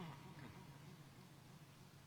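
Near silence: a faint steady low hum of room or recording noise.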